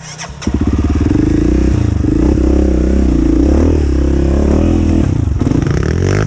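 Off-road dirt bike engine revved hard and held at high revs from about half a second in, with a brief dip around five seconds in and easing off at the end.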